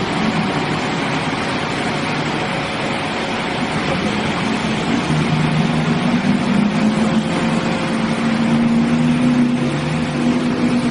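A motor vehicle's engine running steadily at an even pitch under a loud wash of noise.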